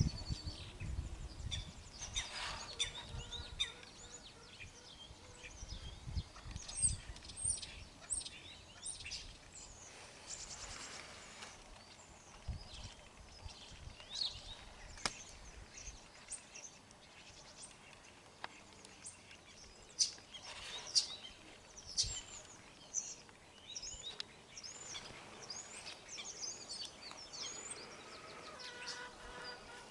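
Small birds chirping and singing, many short calls overlapping throughout, over a faint steady outdoor hiss.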